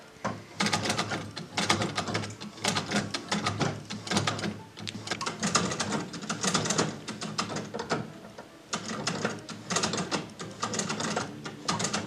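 1913 Singer treadle sewing machine running unthreaded under foot power, its mechanism clattering in a fast run of clicks. It stops briefly twice and picks up again as the beginner's treadle rhythm falters.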